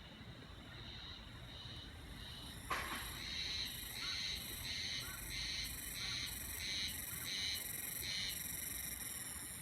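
Haruzemi (spring cicadas, Terpnosia vacua) singing in a steady pulsing rhythm of about two pulses a second. A sharp click comes near three seconds in, and the song is louder and fuller after it.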